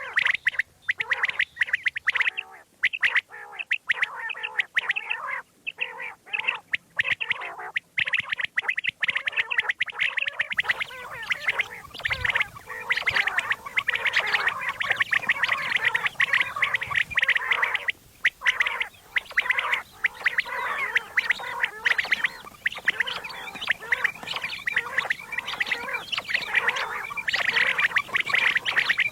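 Common quail calling: a dense, continuous chatter of rapid, gurgling call notes, many overlapping.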